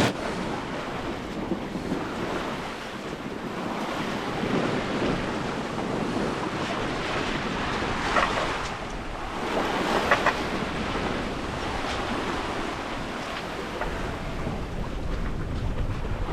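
Waves washing along a sailboat's hull under way in the open ocean, with wind on the microphone; the rush swells and eases every few seconds, with a couple of faint knocks about 8 and 10 seconds in.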